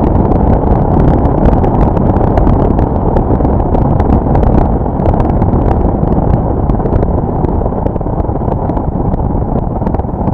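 Loud, steady rumble of road and wind noise from a vehicle driving at speed, with scattered light ticks throughout.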